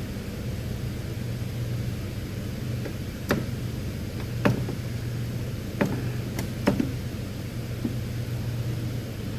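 Hand tools clinking and knocking on parts of a V6 engine being taken apart: about five short, sharp clicks spread over several seconds, over a steady low hum.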